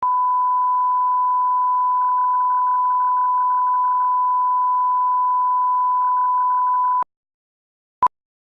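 Steady 1 kHz line-up tone of the kind recorded at the head of a broadcast tape, lasting about seven seconds and cutting off suddenly, then about a second of silence and one short beep at the same pitch.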